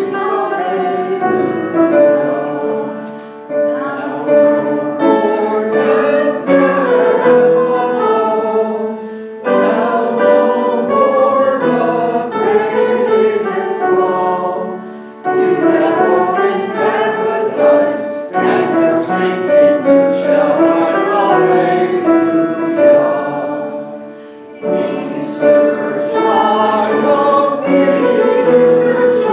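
Church congregation singing a hymn with instrumental accompaniment, in sung lines separated by brief breaks.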